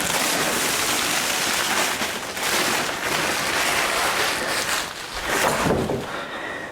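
Plastic cling film wrapping crinkling and rustling loudly as it is handled and pulled about.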